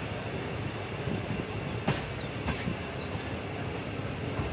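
Passenger train rolling slowly around a curve under a 10 km/h restriction, heard from an open coach door: a steady rumble of wheels on rail with a sharp knock about two seconds in and a faint high wheel squeal.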